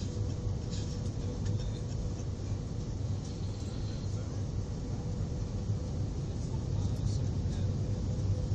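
Airliner cabin noise: a steady low rumble from the engines and airflow, with a constant hum riding above it.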